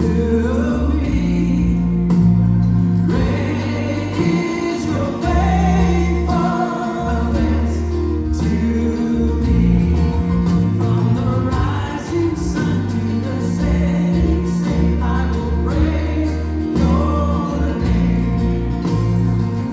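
Gospel choir singing with instrumental accompaniment, held bass notes changing every second or two under the voices.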